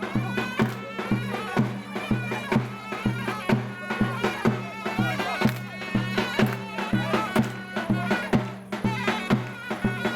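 Turkish folk dance music: a reedy, wavering wind melody over a steady drum beat.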